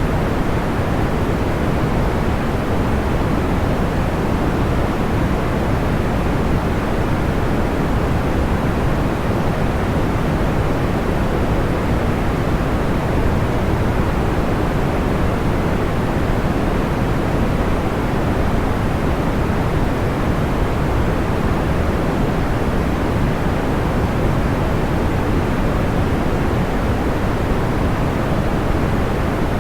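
Steady, even noise of the kind played for sleep, deep and rumbly, dull above the mid range, with no pops or crackles standing out.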